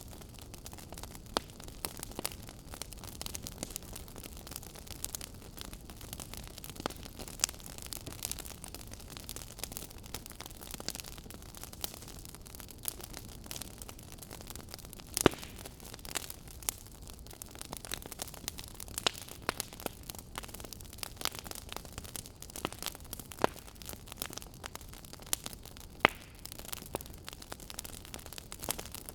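Wood fire burning in a fireplace, with a steady low rush and frequent irregular crackles and pops; the sharpest pops come about 15 and 26 seconds in.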